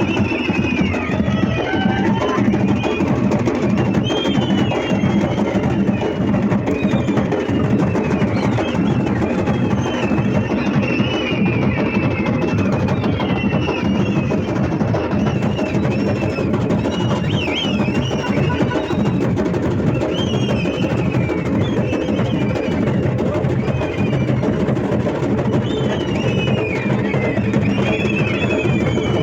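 Continuous loud drumming, a dense unbroken beat of percussion.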